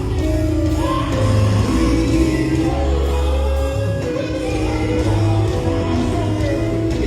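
Gospel quartet singing live with a band: lead and harmony voices over a strong, steady bass line, in a large hall.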